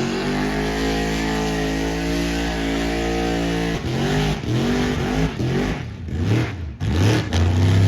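Truck engine held at steady high revs for about four seconds, then revved up and down in a quick series of blips.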